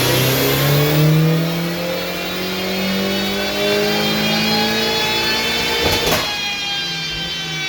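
Big-turbo VW 1.8-litre turbocharged four-cylinder in a Mk2 Golf, revving hard under load on a chassis dyno during a power run, its pitch climbing and then holding high. A short sharp burst of noise cuts across it about six seconds in.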